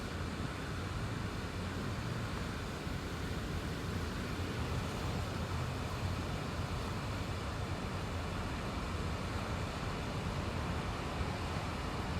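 Steady road and engine noise inside a moving car's cabin: a constant low hum under an even rush of tyre and wind noise.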